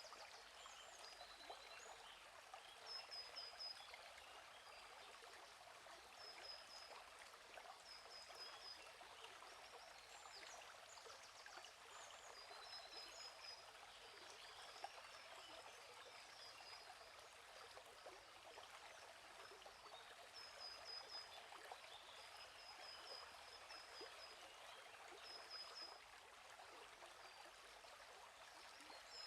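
A gently flowing stream, faint and steady, with small birds chirping short high phrases every second or two over it.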